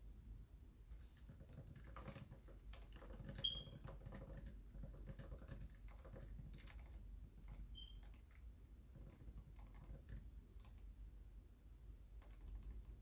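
Faint, irregular typing on a computer keyboard, the keys clicking in quick runs with short pauses. Two brief high chirps come through, about three and a half seconds in and again near eight seconds.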